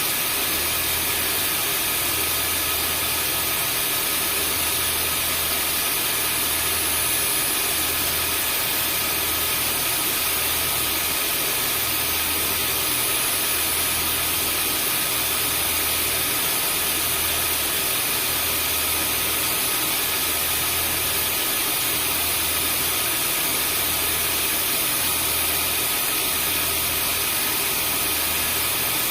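Vacuum cleaner running steadily: an even rushing noise with a thin high motor whine on top and a low hum underneath that swells slowly, about once every second and a half.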